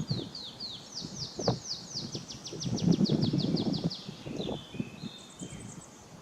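A songbird singing: a run of short, falling whistled notes that speeds up into a fast trill, then breaks into a few different lower notes. Under it runs an uneven low rumbling noise that swells about halfway through.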